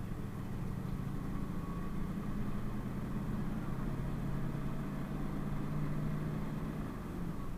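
PAZ-32054 bus engine running while the bus drives, with a steady hum whose pitch edges up a little over the middle seconds.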